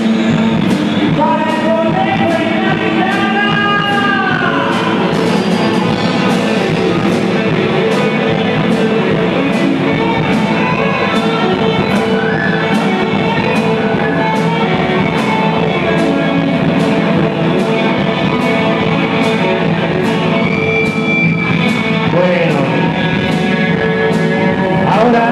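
Rock song playing loudly, with singing over electric guitar and a steady drum beat.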